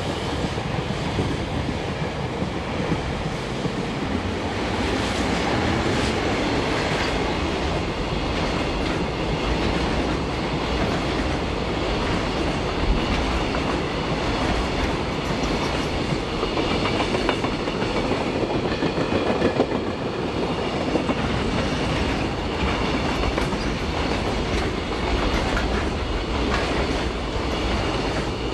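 JR Freight container train passing through a station without stopping, led by an EF200 electric locomotive with a DD51 diesel towed dead behind it; a steady run of wheels clattering over rail joints.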